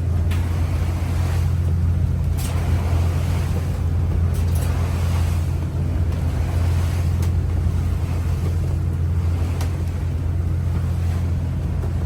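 Trawler's engine droning steadily underway, over water rushing along the hull in rough seas, with a few brief knocks or splashes.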